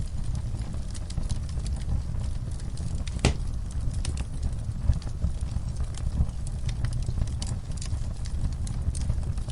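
Wood fire in a fireplace crackling: a steady low rumble with scattered sharp pops, the loudest a little after three seconds in.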